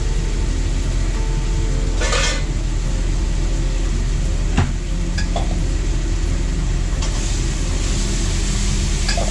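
A steady low mechanical hum, with a short hiss about two seconds in and a sharp click a little past halfway.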